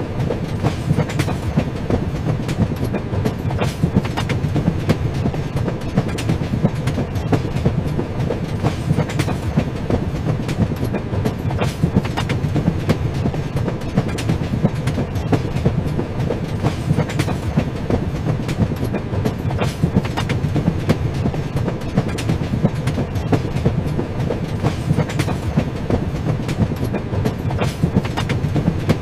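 Train running steadily along the track, with the continuous rumble of the wheels and a clickety-clack of wheels over the rail joints.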